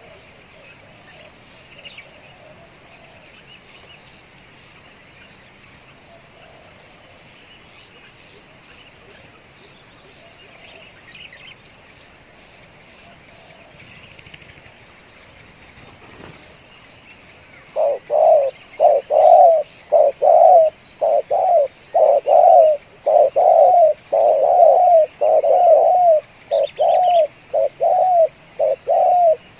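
Spotted dove cooing: after a long stretch of only a steady high insect drone, a loud run of short, low coo notes starts about two thirds of the way in and repeats at roughly two a second.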